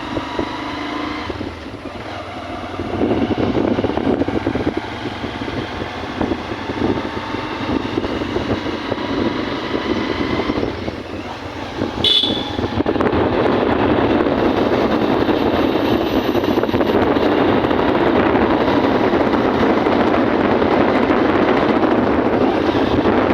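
Motorcycle on the move, its engine and rushing noise running steadily and growing louder about halfway through. There is a brief sharp sound just before the rise.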